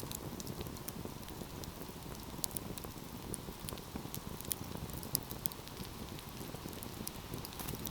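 Fire in a fireplace crackling, with many irregular sharp pops over a low, steady rush of the flames.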